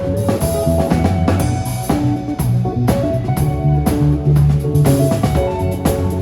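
Live band playing an instrumental passage with no vocals: drum kit with kick drum and rimshots under bass and guitar.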